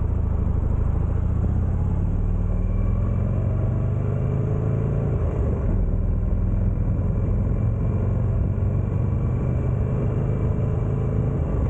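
Buell Firebolt XB12R's V-twin engine running while the motorcycle is ridden, its pitch climbing gently a few seconds in and then holding steady.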